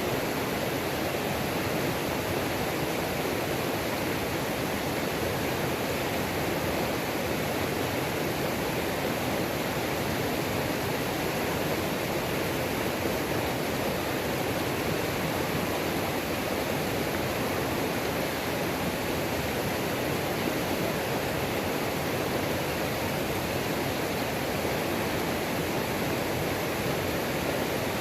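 Waterfall on a mountain creek: water pouring and rushing in a steady, unbroken roar.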